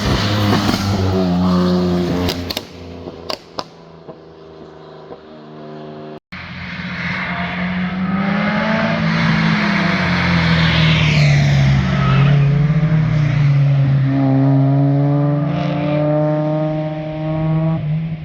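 Two performance cars driving past at speed, one after the other. The first car's engine fades away with a couple of sharp pops; then a second car approaches and passes loudly, its engine pitch climbing in steps as it accelerates through the gears near the end.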